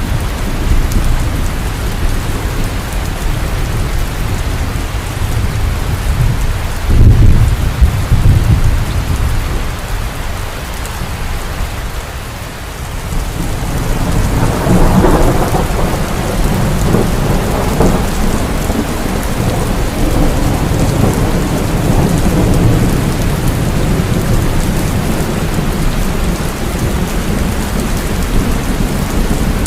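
Heavy rain falling steadily with thunder: a low rumble about seven seconds in, then a longer rumble that builds about fourteen seconds in and goes on rumbling.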